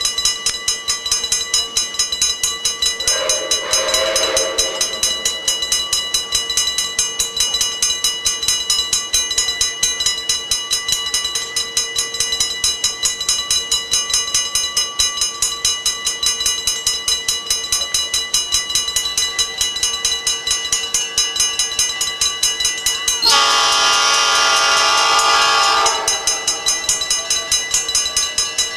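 Train running with an even rhythmic beat throughout. Near the end comes a loud, chord-like whistle blast lasting a little under three seconds.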